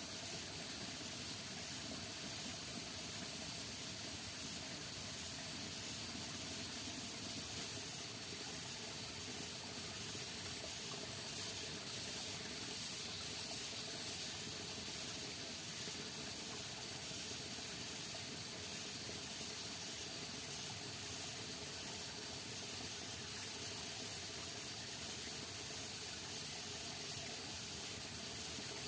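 Steady rain falling in the forest, a constant even hiss with a high, faintly pulsing shimmer on top.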